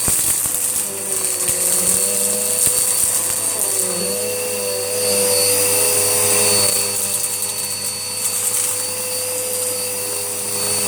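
Hoover Whirlwind upright vacuum cleaner running steadily as it works over cat litter and hair, its motor tone wavering slightly in pitch. There are a few sharp ticks in the first three seconds.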